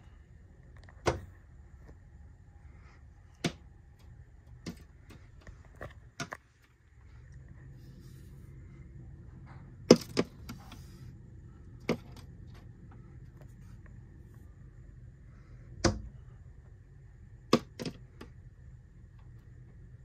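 A bird striking and pecking at a window pane from outside: sharp, single taps on the glass at uneven gaps, about a dozen in all, some in quick pairs. The loudest is a double tap about ten seconds in.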